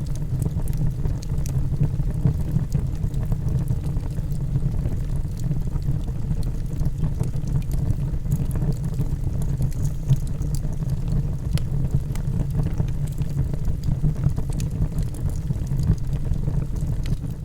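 Wood fire burning in a fireplace: a steady low rumble of the flames with scattered small crackles and pops of the burning logs.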